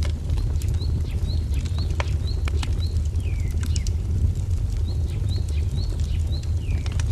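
Wood fire crackling with scattered sharp pops over a steady low rumble. A small bird repeats short rising chirps about twice a second, in two runs, with a couple of downward-slurred notes between them.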